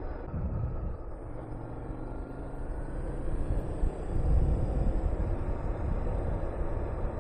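Honda VTR250's 250 cc V-twin engine running under way, with wind rushing over the microphone. A faint rising engine note comes in about a second in, and the sound grows louder a little past halfway.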